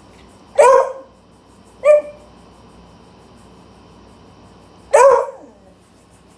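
A beagle barking three times to wake someone up: a bark, a shorter one about a second later, then a longer bark a few seconds after.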